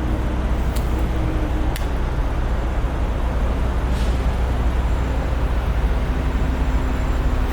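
Diesel semi-truck engine idling with a steady low rumble, with three brief sharp clicks over the first few seconds.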